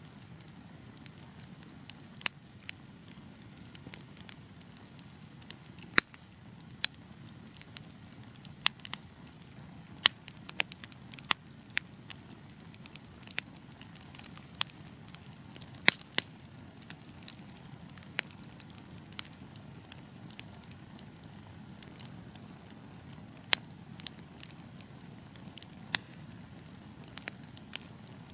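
Wood fire burning in a fireplace: a steady low rush of flames with irregular crackles and sharp pops, a few of them loud.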